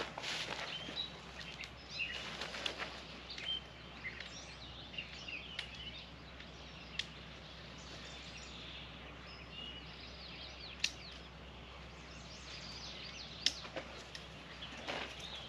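Birds chirping and calling over steady outdoor background noise, with a few sharp clicks and brief bursts of rustling noise near the start and end.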